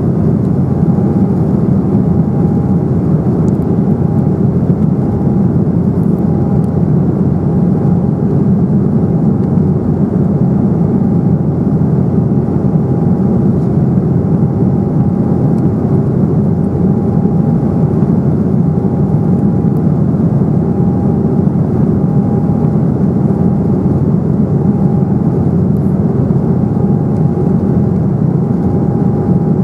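Steady cabin noise of an Embraer 195 in flight: the rush of air and the drone of its GE CF34-10E turbofans heard from a seat in the cabin. A faint whine swells and fades about every one and a half seconds.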